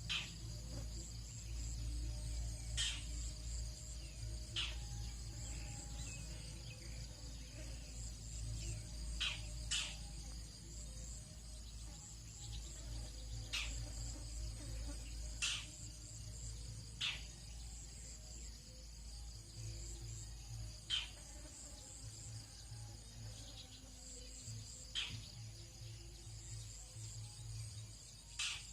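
Steady high-pitched chorus of crickets and other insects, with about a dozen short, sharp chirps scattered irregularly through it and a low rumble underneath.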